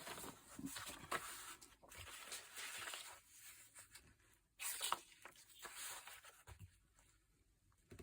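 Faint rustling and scraping of paper being handled and worked on a tabletop, in two stretches with a pause in the middle and a few light clicks.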